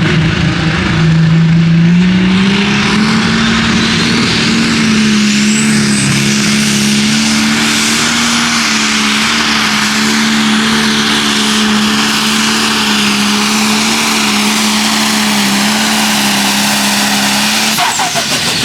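Super/pro stock pulling tractor's turbocharged diesel engine at full throttle during a pull: the engine note climbs over the first couple of seconds and then holds steady, with a high turbo whine rising over it. Near the end the engine note drops and the whine falls away as the throttle is cut at the end of the run.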